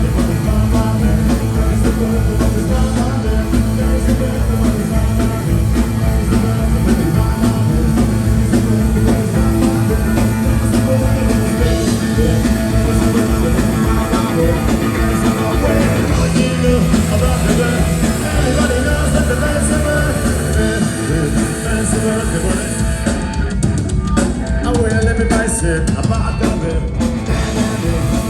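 Live rock band playing loud, with drum kit, electric guitar and bass, and singing in the mix.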